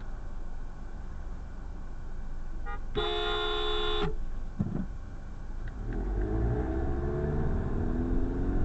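A car horn sounds once for about a second, over steady car rumble, honking at a driver stopped at a green light. Near the end the car's engine rises in pitch as it speeds up.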